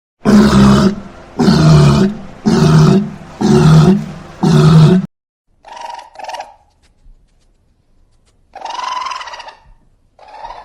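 Five loud animal calls, each about a second long and evenly spaced, followed by a few shorter, fainter, higher-pitched calls.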